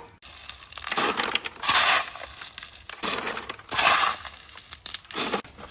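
Gritty scraping strokes of a hand tool working through wet concrete mix. There are about five strokes, coming in two pairs and then a short one near the end.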